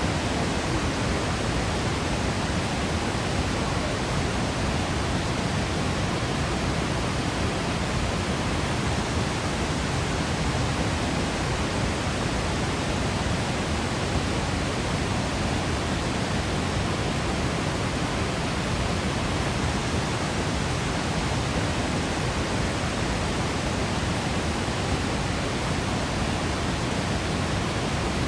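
Waterfall pouring: a steady, unbroken rush of falling water with no changes.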